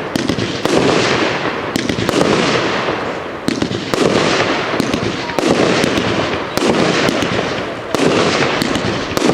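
Royal Fireworks 'Wonderful World' 100-shot firework cake firing: shots go off about once a second, each a sharp crack followed by a crackling wash that fades before the next.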